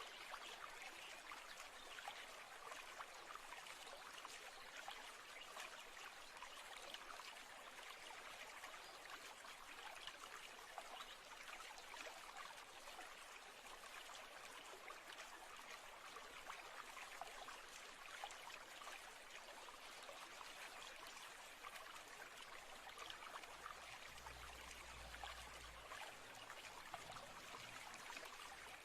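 Faint, steady trickle of a running stream, with a brief low rumble about 24 seconds in.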